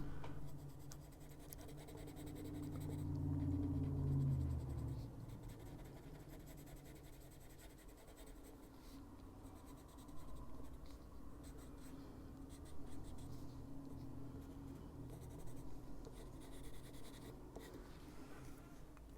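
Caran d'Ache Luminance coloured pencil scratching faintly on paper in repeated short shading strokes. A low hum sits under it for the first few seconds.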